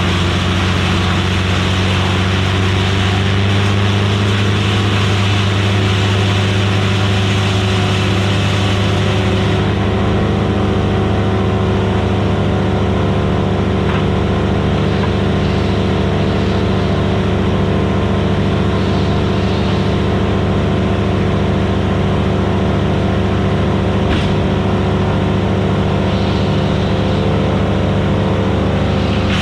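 Vermeer BC1000XL wood chipper's gas engine running steadily at working speed. A harsher, hissing noise rides over it for the first third and stops about ten seconds in, leaving the engine's even drone.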